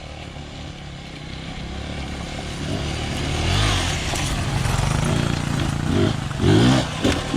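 Dirt bike engine running, getting louder over the first few seconds, with a few strong low surges near the end.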